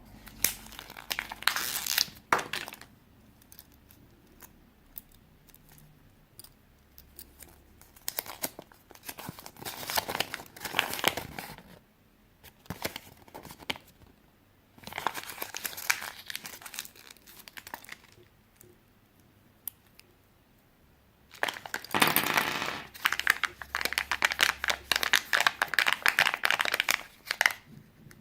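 Crinkling, rustling noise in four bursts of a few seconds each with quiet gaps between, the longest and loudest near the end.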